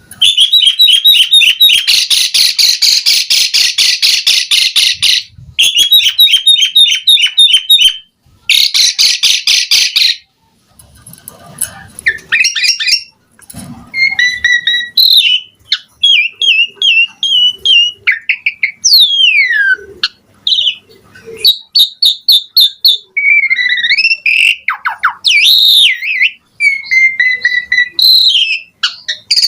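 Asian pied starling (jalak suren) singing at full voice. It gives three long bursts of fast rattling chatter in the first ten seconds, then a varied run of whistles, rising and falling slurs and chirps, a song loaded with mimicked phrases ('isian').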